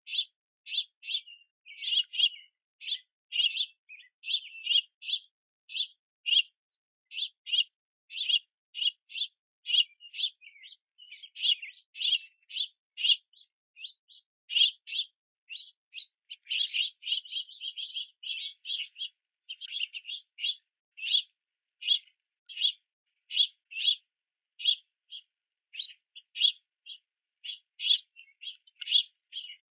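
Juvenile house finches begging for food: short, high chirps repeated about twice a second, crowding into a quicker run about halfway through.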